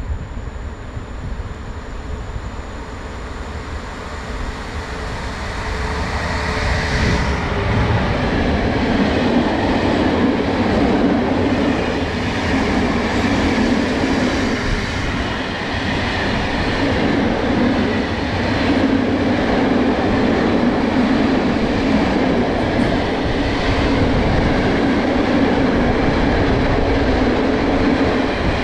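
A train approaching and passing close by, its running and wheel noise building over the first several seconds and then staying loud.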